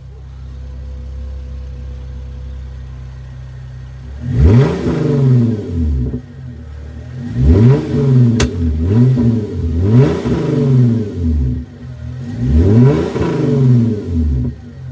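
Straight-piped (muffler and resonator deleted) 3.8-litre V6 of a 2011 Hyundai Genesis Coupe idling, then revved hard in three rounds of quick throttle blips starting about four seconds in, with a single sharp pop near the middle of the revving.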